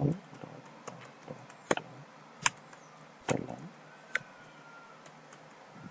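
A few separate sharp clicks, roughly one a second with gaps, from a computer keyboard and mouse being used to edit code.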